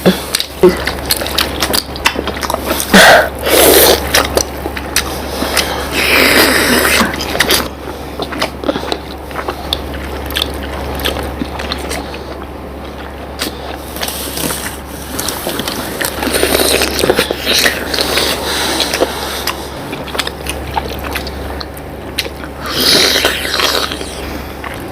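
People eating syrup-soaked rasgullas: wet chewing and slurping with scattered clicks and a few short noisy bursts, over a steady low hum.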